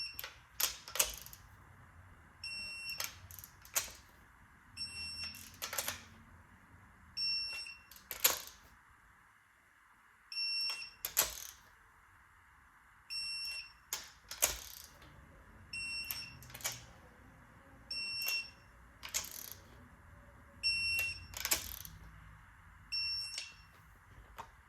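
Electronic torque wrench beeping as each cylinder-head nut reaches 20 ft-lb, with sharp clacks of the wrench and socket after each beep. About nine short beeps, one every two to three seconds, with a pause near the middle.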